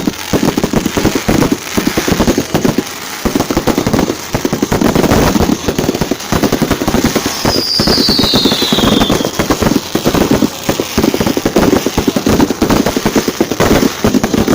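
Fireworks display: dense, continuous crackling and rapid bangs, with a falling whistle about seven and a half seconds in.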